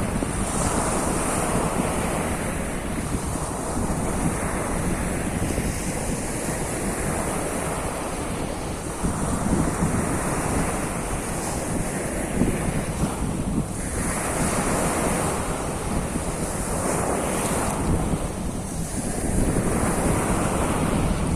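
Surf on the Sea of Azov: waves breaking and washing on the shore, swelling and easing every few seconds, with wind rumbling on the microphone.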